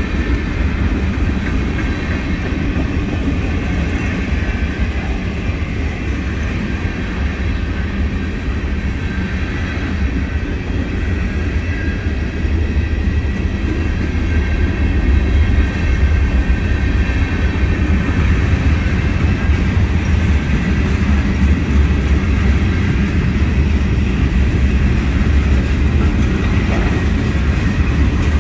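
Mixed freight train's tank cars and lumber flatcars rolling past: a steady low rumble of steel wheels on the rails, growing a little louder about halfway through.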